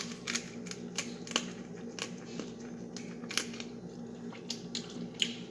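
Crab leg shells being cracked and pulled apart by hand: a run of small irregular cracks and clicks.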